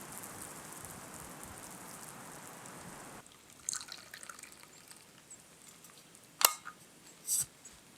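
A drink being poured and handled: a steady trickling hiss that stops suddenly, then small clinks and two sharp clicks about a second apart near the end.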